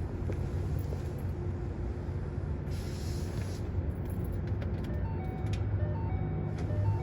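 A steady low hum, with a few short electronic tones at different pitches in the last two seconds as the hum grows slightly stronger. These are typical of a car's ignition being switched on just before a cold start.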